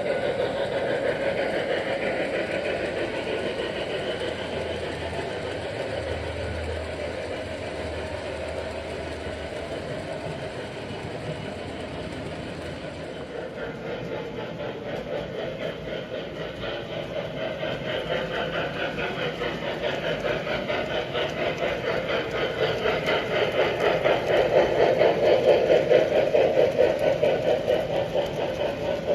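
Model train running on its track, the motor humming and the wheels clicking over rail joints, growing louder as it passes close near the end.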